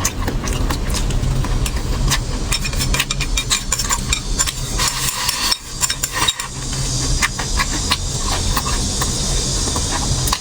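Close-miked eating sounds: chewing with rapid, irregular clicks and crunches, and a steady hiss joining about six and a half seconds in.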